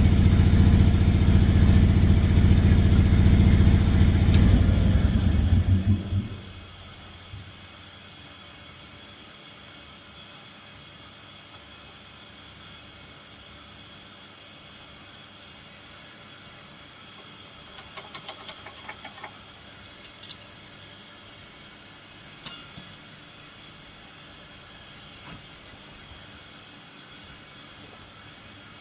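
An engine running steadily, then shut off about six seconds in, leaving only a faint hiss and a few small clicks.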